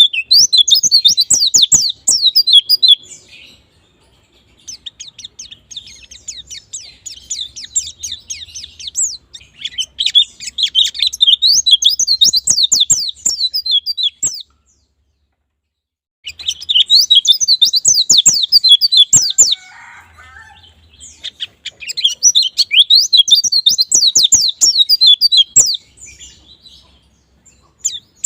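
White-eyes (pleci) singing: long phrases of rapid, high-pitched twittering chirps, each a few seconds long, separated by short pauses, with one complete break of about two seconds near the middle.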